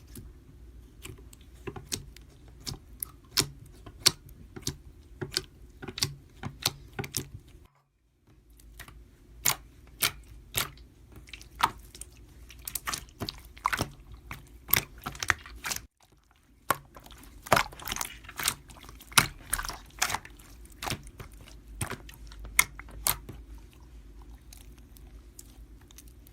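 Irregular sharp clicks and taps, roughly one or two a second, over a steady low hum; the sound cuts out abruptly twice, about eight and sixteen seconds in.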